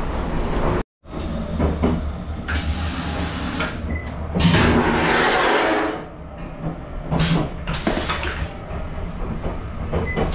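Running noise of the Kintetsu Blue Symphony electric train, a steady low rumble with a few short knocks and a louder rushing stretch near the middle. The sound cuts out briefly about a second in.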